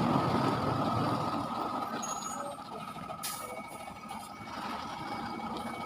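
Truck rumbling and fading, with a steady high-pitched tone and a brief hiss about three seconds in.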